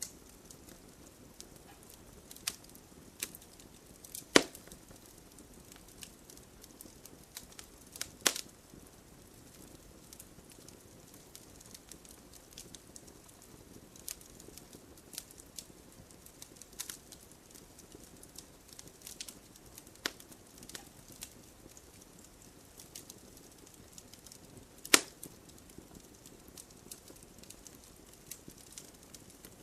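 Wood campfire crackling with scattered small pops and snaps, and three louder sharp pops: about four seconds in, about eight seconds in, and a few seconds before the end.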